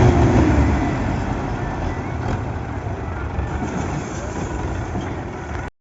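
Heavy tractor diesel engine noise, a deep rumble that is loudest at first and eases off over the first couple of seconds, under a general outdoor din. The sound cuts off abruptly just before the end.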